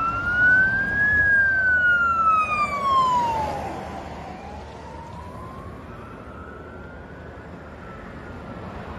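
Fire engine siren wailing in a slow rise and fall over road traffic noise. It is loudest as the truck passes and grows fainter from about three and a half seconds in as it drives away.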